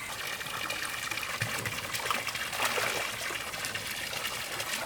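Water running and trickling steadily, with many small drips and splashes.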